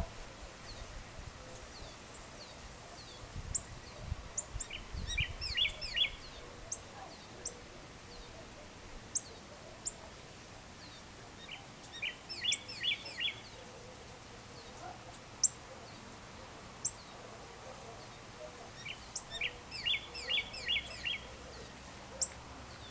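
Birds singing and calling over a steady background hiss. One bird repeats a short phrase of quick, rapid notes three times, about seven seconds apart, and thin, high single chirps come in between.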